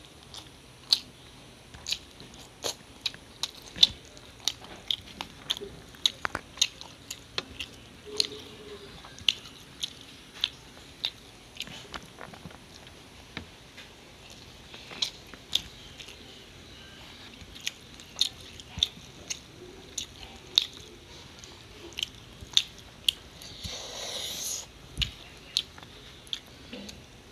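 Close-up mouth sounds of a person chewing rice and chicken curry: wet lip smacks and clicks, one or two a second. Near the end comes a brief breathy rush.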